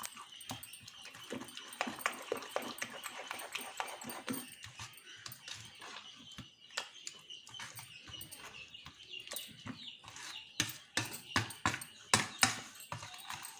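A spoon stirring thick idli batter in a bowl: wet squelching and sharp clicks of the spoon against the bowl, loudest and most frequent near the end. A faint steady high whine sits under it.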